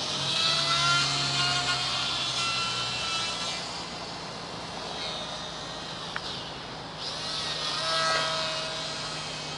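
Small electric RC plane's motor and propeller whining as it flies. It swells louder twice as it passes close, with the pitch dropping slightly each time, over a steady low hum.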